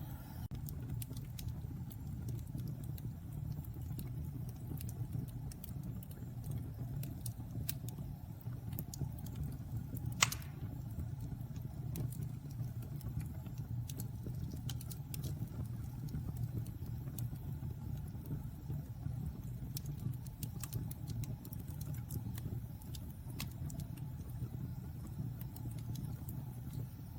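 Fire burning in a fireplace: a steady low rumble with scattered crackles and one sharp, louder pop about ten seconds in.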